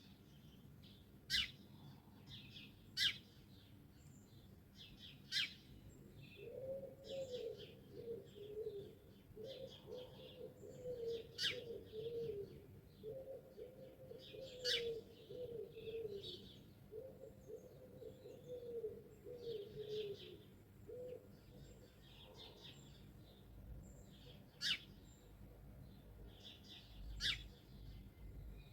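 Songbirds singing, with sharp, very brief loud call notes every second or few and softer warbling phrases between. From about six seconds in until about twenty-one seconds, a dove coos low in a run of four repeated phrases.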